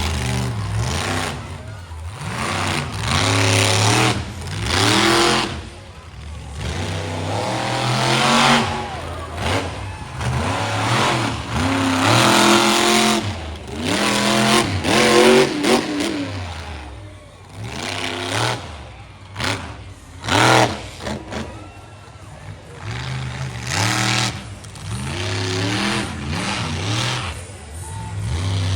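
Monster truck's supercharged V8 engine revving hard and falling back over and over, its pitch climbing and dropping with repeated throttle stabs and short lifts.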